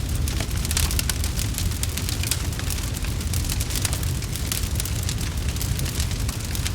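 Fireplace fire crackling, with many small irregular pops over a steady low rumble.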